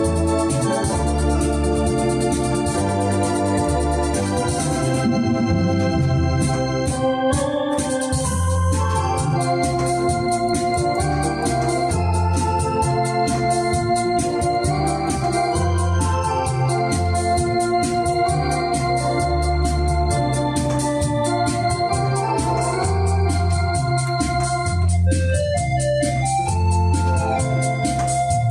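Electronic organ playing a melody over sustained chords and a bass line that steps from note to note, with a light, regular ticking rhythm accompaniment.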